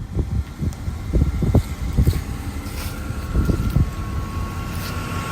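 Mercedes-AMG M156 6.2-litre V8 running, with irregular low thumps over a steady rumble and a thin steady whine. The engine has a rod-knock-type noise that the owner suspects is coming from the alternator.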